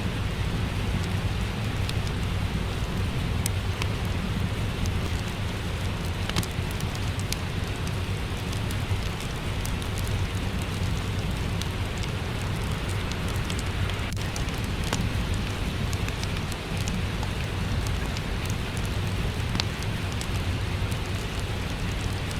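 Steady rain falling, with the scattered small crackles and pops of a wood fire.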